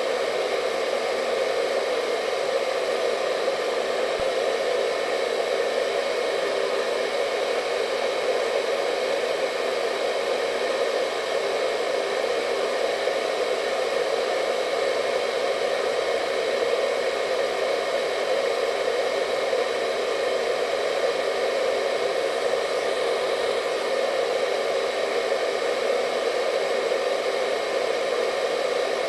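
Hair dryer running continuously, a steady even whoosh of blown air with a faint motor whine and no change in speed.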